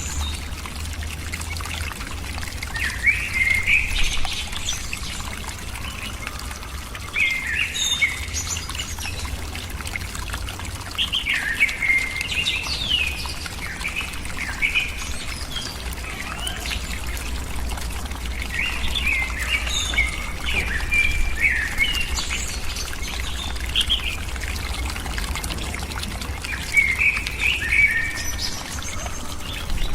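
Birds chirping in short bursts of several quick notes, the bursts coming every few seconds, over a steady low rumble.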